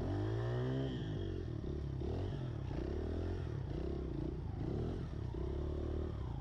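Pit bike engine revving up and down over and over, its pitch rising and falling every second or so as the throttle is worked.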